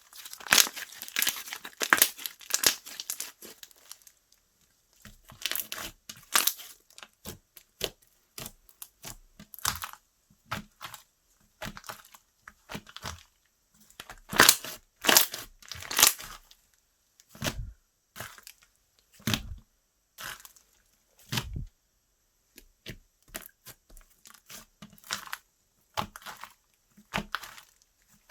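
Hands squishing, stretching and poking slime, giving irregular sticky crackles, pops and clicks. The crackling is densest in the first few seconds, and a few deeper pops come later on.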